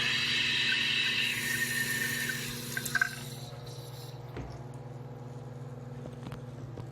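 Toilet tank fill valve refilling a 2014 Western Pottery Aris tank with a hissing rush of water. The hiss cuts off about three seconds in as the tank finishes filling, with a few drips just before it stops.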